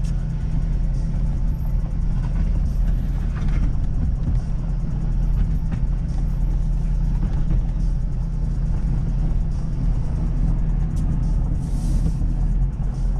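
Ford Super Duty pickup's 6.7-litre Power Stroke diesel V8 running steadily while plowing, a low, even drone heard from inside the cab.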